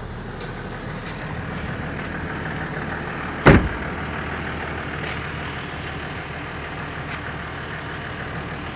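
A car engine idling steadily, with a faint, steady high whine over it and one loud thump about three and a half seconds in.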